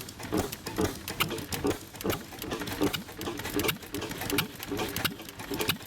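A 1923 McCormick Deering model M single-cylinder engine running, with sharp mechanical clicks from its valve gear and igniter repeating about twice a second over low puffs.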